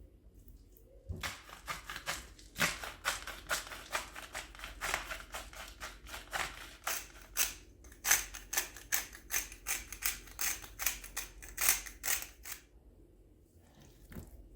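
A quick run of sharp clicks or chops, about three to four a second, lasting about eleven seconds and stopping a little before the end.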